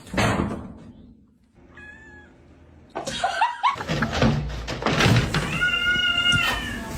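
A cat meowing, with a short call about two seconds in and a long, held meow near the end, over thumps and clattering noise.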